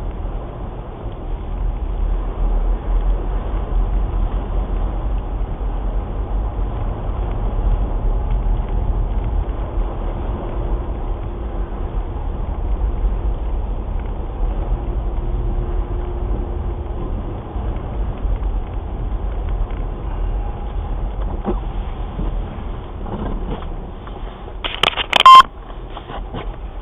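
Steady low rumble of a Skoda Kodiaq SUV driving, heard through the dash cam inside the cabin. Near the end comes a brief, very loud knock.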